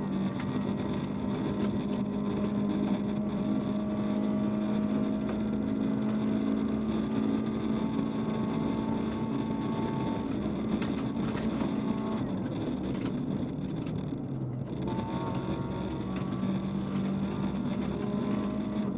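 Cabin sound of a VW Polo's 1.4-litre 16-valve four-cylinder rally engine running hard at a steady pitch, with constant tyre and road noise from the snowy gravel. About twelve seconds in the revs drop as the driver lifts off, and around fifteen seconds in they climb back up.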